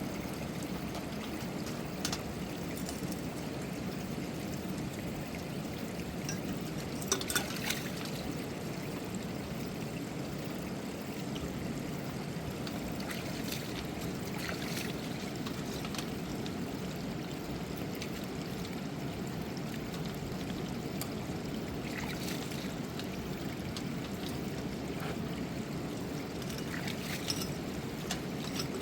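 River water rushing steadily, with a few short knocks over it, the loudest about seven seconds in.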